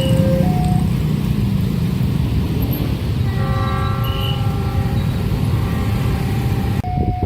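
A train rumbles through a level crossing while the crossing's warning alarm alternates between two tones. About three and a half seconds in, the locomotive's horn sounds and is held for about three seconds.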